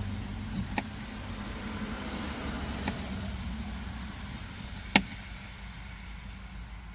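Road traffic passing, a steady low rumble that swells and fades, with three sharp clicks or taps, the loudest about five seconds in.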